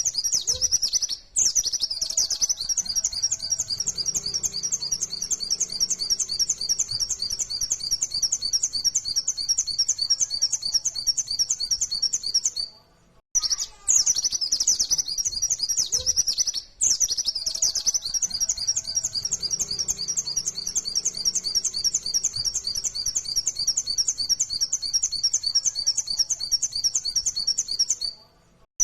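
A white-eye (pleci) singing its fast, high-pitched 'nembak' song: long unbroken runs of rapid repeated notes. There are short breaks about a second in, near the middle, and near the end.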